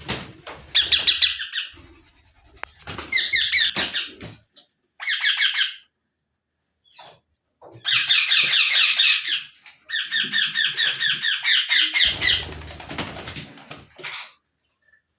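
Indian ringneck (rose-ringed) parakeet giving bursts of rapid, shrill, chattering screeches, about six bouts with short pauses, the longest lasting several seconds in the second half. A low rumble runs under some of the bursts.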